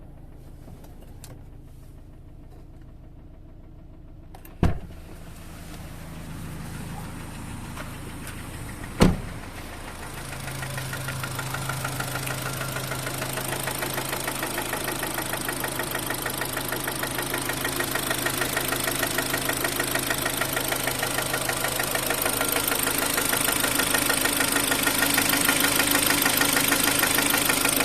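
Kia Sportage 3's G4KD 2.0-litre four-cylinder petrol engine running with a fast, steady knock, louder from about ten seconds in; the owner puts the knock down to scored cylinders ahead of an overhaul. Two sharp thumps stand out, near five and nine seconds in.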